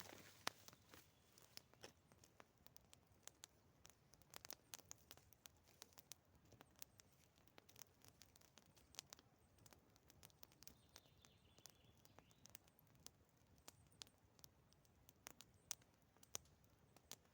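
Wood campfire crackling faintly, with scattered sharp pops and snaps at irregular intervals.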